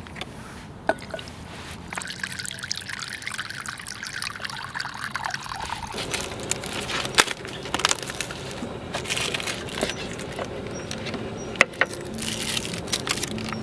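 Liquid being poured into a container, trickling, with a few light clinks.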